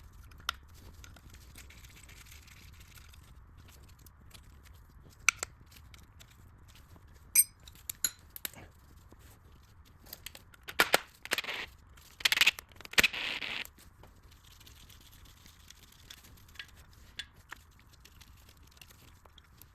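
Hand tools working on the engine's VTEC solenoid bolts: scattered metal clicks and clinks, one ringing briefly, and short bursts of rapid ratchet clicking in the middle as the 10mm bolts are turned.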